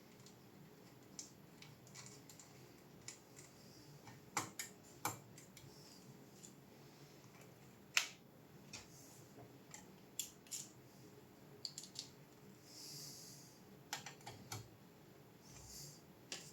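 Scattered light clicks and taps of small metal and plastic graphics-card parts and tools being handled, irregular and a second or so apart, the sharpest about eight seconds in, with a short soft scrape around thirteen seconds.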